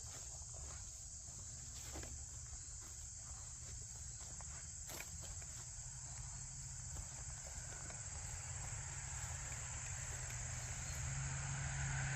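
Steady chorus of crickets or similar insects, a high continuous trill. A low rumble builds gradually underneath and is loudest near the end.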